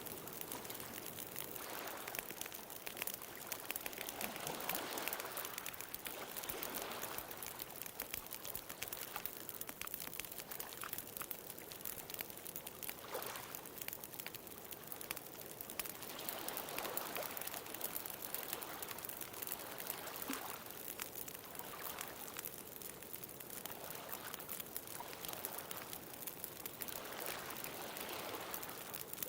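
Bonfire crackling with many small sharp pops, over the steady wash of ocean waves that swell up and fall back a few times.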